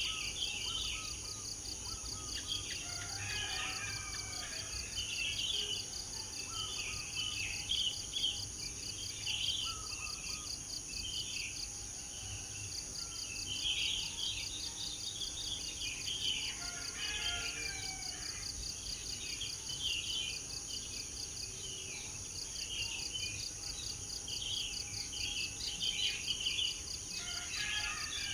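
Several songbirds chirping and warbling in short, repeated phrases over a steady, high-pitched insect chorus with a fast pulsing trill.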